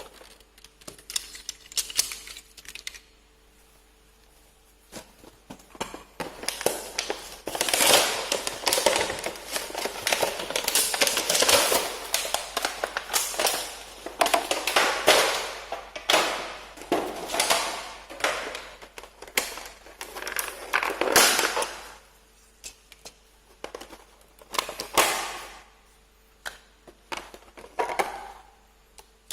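Toy packaging being torn open and handled: irregular crinkling, rustling and sharp clicks, densest through the middle, sparser at the start and near the end.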